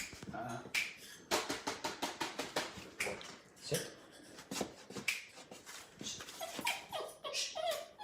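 Labrador Retriever puppies whining and yipping in short bursts, mixed with many small clicks and taps.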